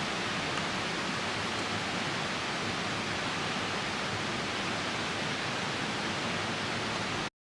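Steady rushing of a nearby river with rain falling, an even wash of water noise that cuts off abruptly near the end.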